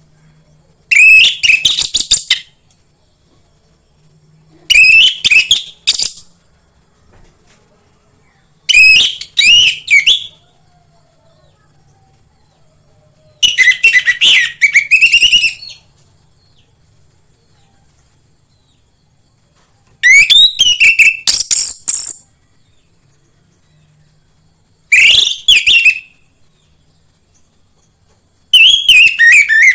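Orange-headed thrush (anis merah) singing: seven loud phrases of fast, rising and falling whistled notes, each a second or two long, with pauses of about two to three seconds between them. This is a lure song for getting kept anis merah to sing. A faint steady high hiss runs underneath.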